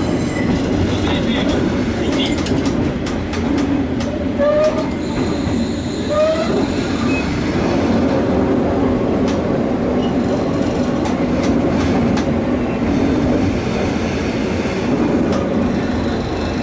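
Diesel railcar running along the track: a steady rumble with scattered clicks from the rails and a couple of short rising wheel squeals early on.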